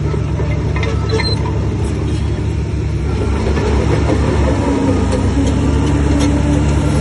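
Heavy diesel engine of earthmoving machinery running steadily, with scattered short metallic clinks over it.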